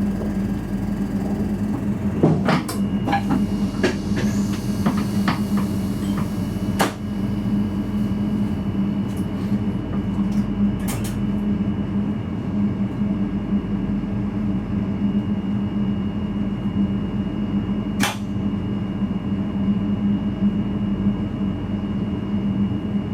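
Steady electrical and mechanical hum with a faint high whine inside the driver's cab of a VIRM double-deck electric train. A run of sharp clicks and knocks comes between about two and seven seconds in, and a single sharp click near the end.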